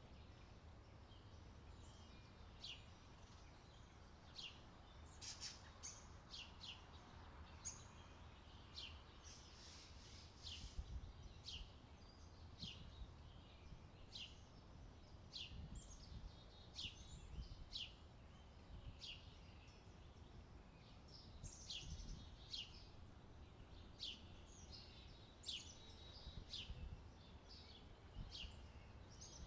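A bird calling over and over with short, high, falling chirps, about one a second, faint, over a low steady rumble.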